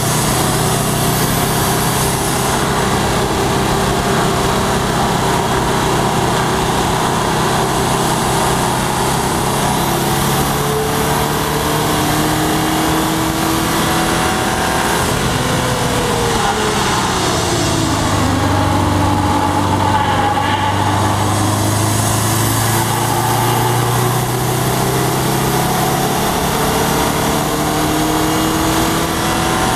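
2011 Subaru WRX's turbocharged 2.5-litre flat-four engine pulling at speed on track, its pitch climbing slowly, falling sharply about halfway through as the car slows, then climbing again, over a steady rush of noise.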